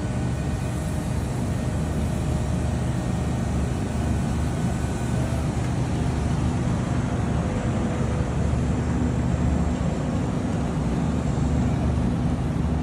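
Steady low machine rumble, unbroken, with faint whine tones that fade out about five seconds in.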